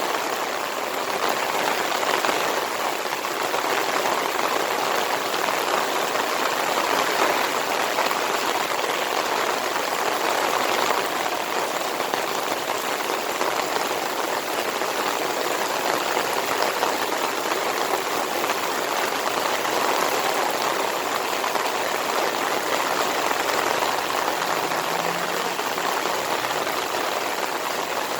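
Heavy monsoon rain pouring steadily in an even, dense hiss.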